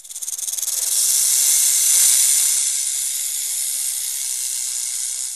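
Snake hissing: one long, steady hiss of about five and a half seconds that swells over the first two seconds, eases slightly, and then cuts off.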